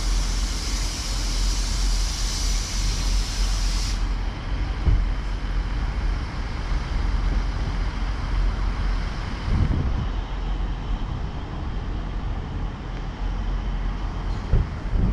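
Wind buffeting the microphone in an uneven low rumble, over a steady high hiss that cuts off abruptly about four seconds in.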